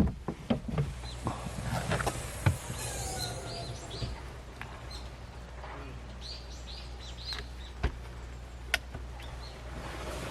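Small birds chirping now and then over a steady low hum, with a few sharp clicks and knocks scattered through.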